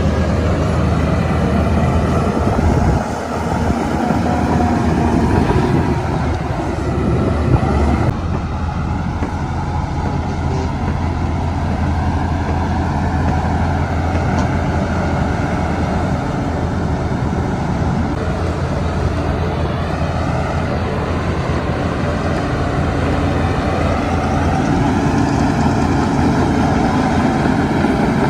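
Diesel engines of a bulldozer and dump trucks running steadily under work. The engine pitch shifts a few times and rises near the end as they work harder.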